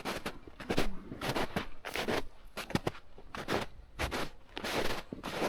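Footsteps of people walking along a trail, about two steps a second, each a short sharp scuff.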